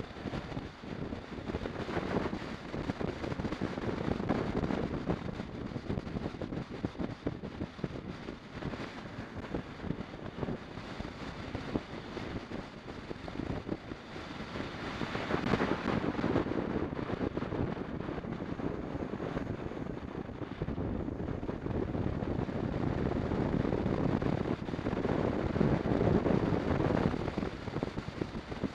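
Wind rushing and buffeting over the microphone of a camera on a moving BMW 650 GS motorcycle, with the bike's running mixed in. It grows louder about halfway through and again near the end.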